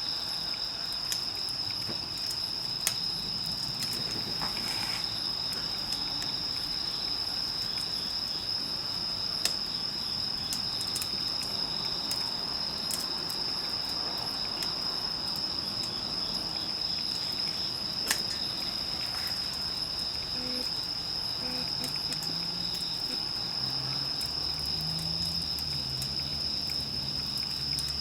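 Steady chorus of crickets trilling on one high pitch, with a few sharp single pops from the wood bonfire, the loudest about two-thirds of the way through.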